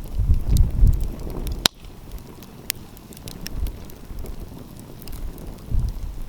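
Wood fire crackling, with scattered sharp pops and one loud snap about a second and a half in, over low rumbling gusts of wind on the microphone.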